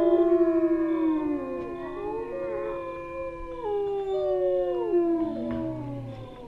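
A pack of wolves howling in chorus: several long howls overlap at different pitches, each sliding downward at its end, and the chorus fades near the end.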